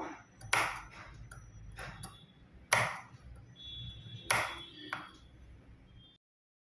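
Scissors snipping fabric: about five short, sharp cuts at uneven gaps. They are slits being clipped into the seam allowance of a curved princess-blouse seam so it will turn without pulling.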